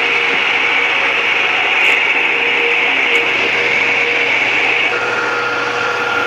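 Tron electric wall fan running: a steady rush of air with a constant motor hum. About five seconds in, a thin whine joins and rises slowly in pitch.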